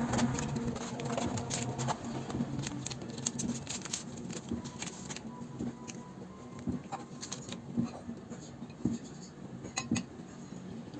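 Kitchen handling sounds: dishes and utensils clinking and tapping irregularly over a low, steady hum.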